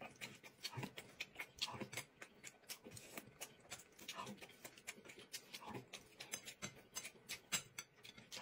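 Soft mouth sounds of two people chewing dumplings close to the microphone: quick, irregular clicks and smacks, several a second.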